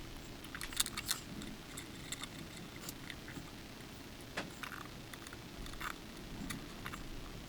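Scattered light clicks and taps of hand work on a guitar at a workbench, over faint room noise.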